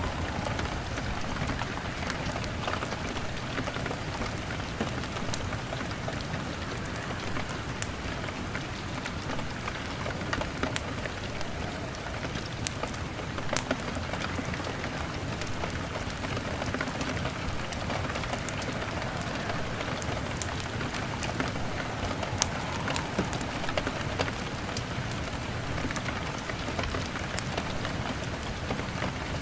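Steady rain on a window, with scattered sharp crackles from a wood fire.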